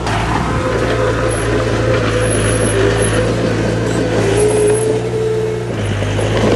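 Heavy diesel earthmoving machinery running steadily under load, with a wavering whine over the engine hum from about half a second in until near the end, when the engine note shifts.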